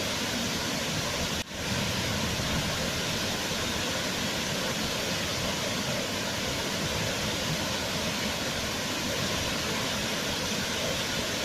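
Waterfall rushing steadily, an even roar of falling water, with a momentary dip in level about one and a half seconds in.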